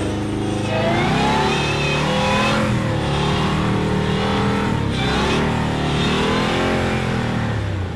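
Off-road Jeep engine revving up and down about three times, the pitch climbing and dropping back with each throttle push.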